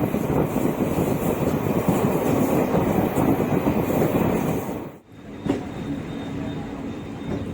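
Passenger express train running on the rails, with steady wheel-and-track noise. About five seconds in, the sound cuts off abruptly and resumes quieter, with a faint steady hum and a thin high tone.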